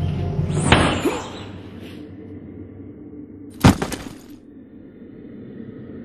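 Music fades away over the first two seconds, with a sharp hit just under a second in. About three and a half seconds in comes one loud sudden crash with a breaking, shattering ring that dies away within about a second.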